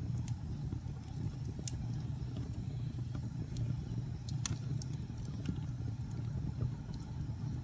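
Wood fire burning in a fireplace: a steady low rumble with sharp crackles and pops scattered through it, the loudest pop about four and a half seconds in.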